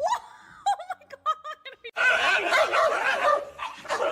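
A dog yelping: a rising call, then several short high yips in quick succession. About halfway through, a louder, rough, continuous sound takes over.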